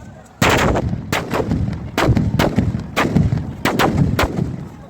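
Firecrackers going off: about nine loud, sharp bangs at irregular intervals, each with a short echoing tail.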